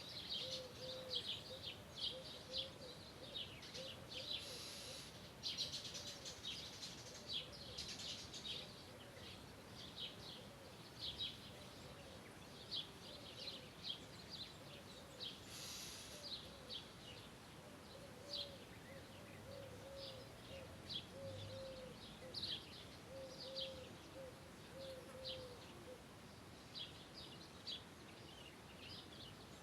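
Birds chirping: many short, high calls in quick succession, with a lower call repeated over and over beneath them for most of the time. Two brief hissy bursts break in partway through.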